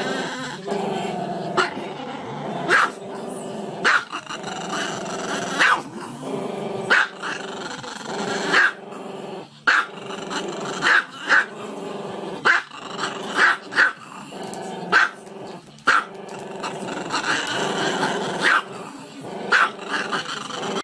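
Small dog growling continuously, broken by a sharp bark roughly once a second.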